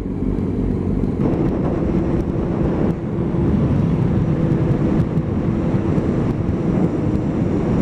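Motorcycle engine running while riding, with wind rushing over the microphone; it grows louder over the first second, then holds steady.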